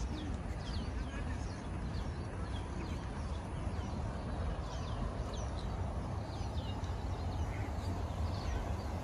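Small birds chirping from the greenery, many short quick falling calls scattered all through, over a steady low rumble.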